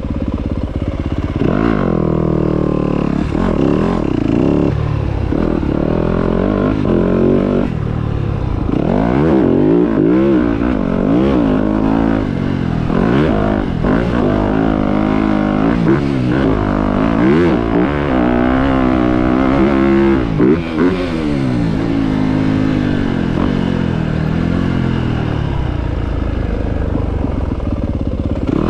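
Motocross dirt bike engine revving up and falling off over and over, its pitch climbing and dropping every second or two, with a brief drop in level about twenty seconds in.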